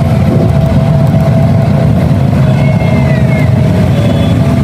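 A vehicle engine running steadily with a loud low rumble.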